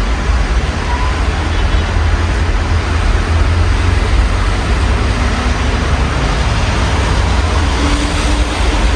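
Steady rain heard through an open window, with city traffic rumbling low underneath and a vehicle passing near the end.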